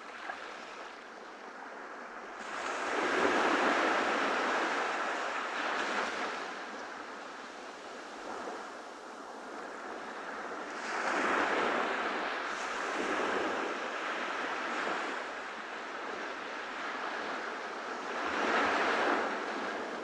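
Ocean waves breaking on a beach: three surges of surf, about eight seconds apart, with a steady wash between them.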